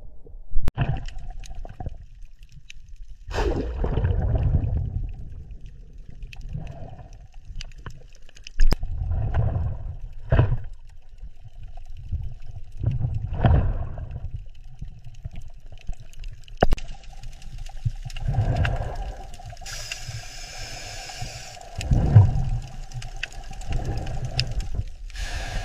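Water sloshing and splashing in irregular bursts every few seconds, with a few sharp knocks.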